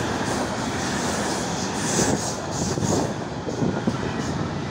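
Train running past close by: a steady rumble of wheels on the rails, with a run of evenly spaced clatters around the middle.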